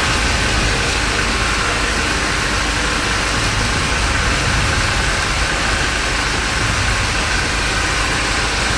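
Kalbaisakhi thunderstorm: heavy rain pouring and strong wind gusting, with the wind rumbling on the microphone. Loud, steady noise without a break.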